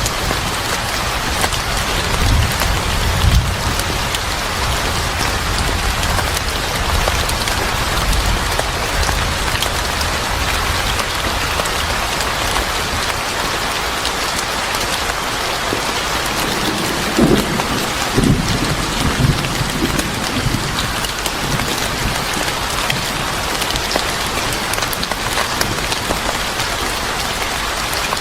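Steady heavy rain falling, a dense even patter, with low rumbles of thunder swelling about two to three seconds in and again a little after the middle.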